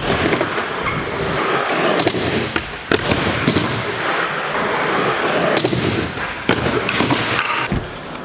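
Skateboard wheels rolling on skatepark ramps with a steady grinding rumble, broken by about half a dozen sharp clacks and slams of boards hitting the surface.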